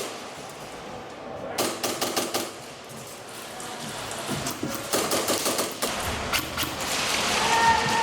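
Airsoft guns firing in full-auto bursts: two main rapid runs of shots, the first about one and a half seconds in, the second about five seconds in, with scattered shots between.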